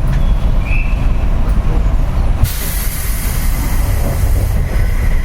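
Inside a JR West 201 series electric train car: a low rumble throughout, and about two and a half seconds in a sudden hiss of released air from the train's pneumatic system, which fades out near the end.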